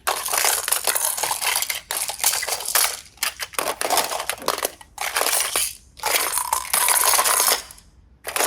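Slime being squeezed and crushed by hand, heard as about six crackling, crunching stretches with short pauses between them.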